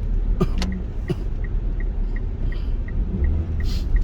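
Car cabin noise while driving: the low, steady rumble of the car on the road, with a light regular ticking about three times a second and a few sharp clicks near the start.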